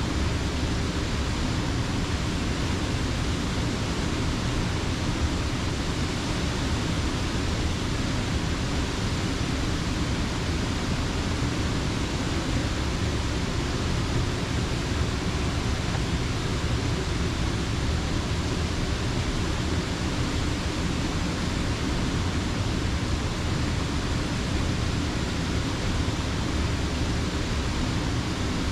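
Steady rush of creek water spilling over a mill dam, a constant deep roar of falling water with no breaks.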